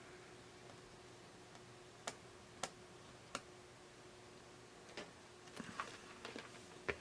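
A few sharp, separate clicks and light taps of small tools being handled at a workbench, coming more often near the end, over a faint steady electrical hum.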